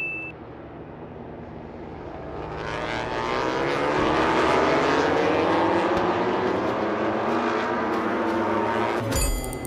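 Racing motorcycle engines, many at once, swelling over a couple of seconds into a loud dense howl of overlapping, shifting pitches. A short electronic tone cuts in near the end.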